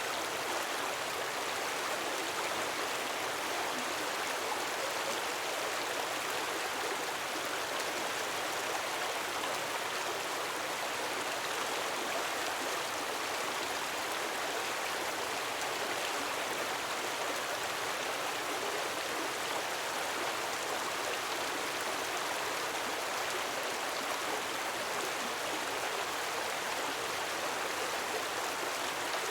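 Gentle waterfall: a steady, even rush of falling water.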